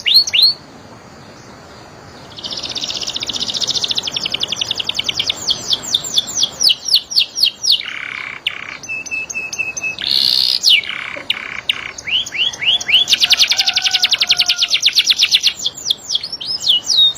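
Domestic canary singing: long, very fast trills alternating with runs of quick downward-sweeping whistled notes, after a brief pause about a second in.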